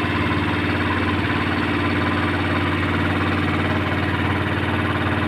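Engine of a small ferry boat idling steadily, with a fast, even chugging pulse.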